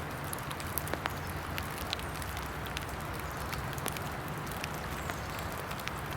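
Steady hiss of rain in wet woods, with many small sharp ticks scattered through it.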